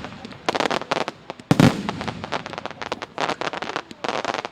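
Fireworks display: clusters of rapid crackling and popping from bursting shells, with one loud bang about a second and a half in.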